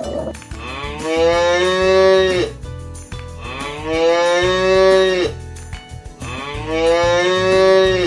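A cow mooing three times, each moo a long call of about two seconds that swells and drops in pitch as it ends.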